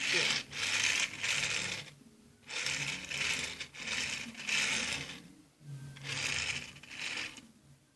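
A Hot Wheels toy car's small wheels rolling and rasping over a surface as it is pushed back and forth by hand, in about six runs of roughly a second each with short pauses between.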